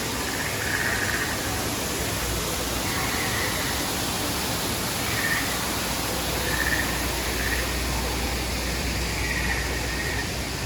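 Steady rushing outdoor noise with faint, brief sounds of distant voices.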